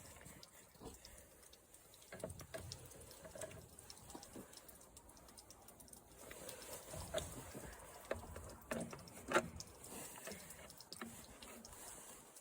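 Faint, irregular clicks and light knocks from hand work on a push lawn mower's parts, with a sharper click about nine seconds in.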